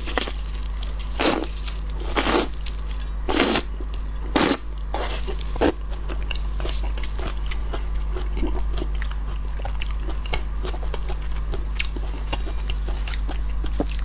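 Close-miked biting and chewing of shellfish: about five loud crunches in the first six seconds, then steady smaller crunching clicks of chewing. A steady low hum runs underneath.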